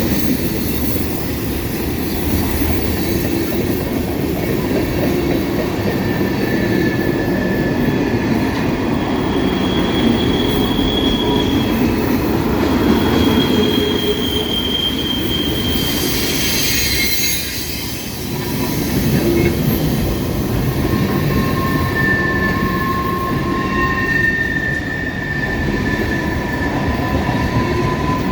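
Freight cars of a long manifest train rolling past, steel wheels running on the rail with high wheel squeals that come and go.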